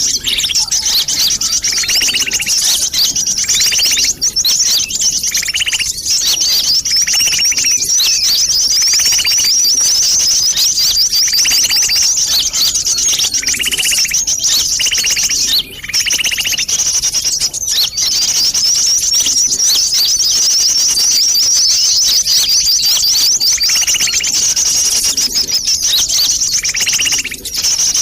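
Bird-lure recording of sunbirds calling excitedly: a dense, continuous rapid high twittering, with a lower repeated note about once a second in stretches. The twittering dips briefly about halfway through.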